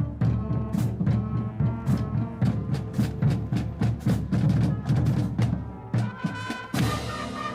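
A live band playing: drums beat a quick, steady rhythm, and brass chords come in loudly near the end.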